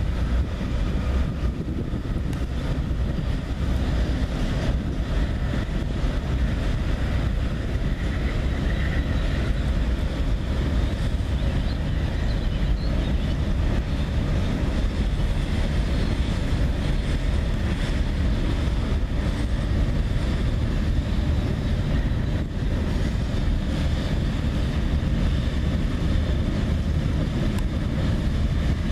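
Freight train cars rolling steadily across a steel girder bridge: a continuous deep rumble of wheels on rail, with wind on the microphone.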